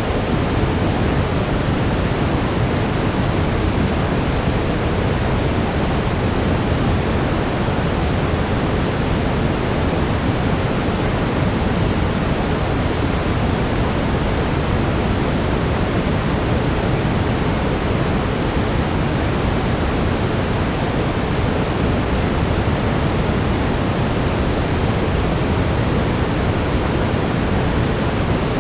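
Steady brown noise, a deep, even rushing hiss heavier in the low end, with no change or events.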